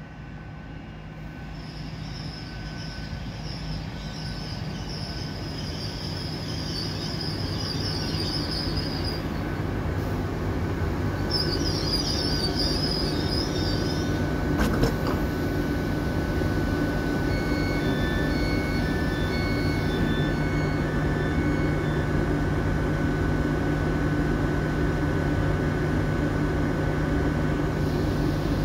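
GWR Class 800 train running in and stopping at the platform: a rumble that grows louder, with high wheel or brake squeal over the first half. Once it has stopped, a steady hum goes on, with a run of short high beeps partway through.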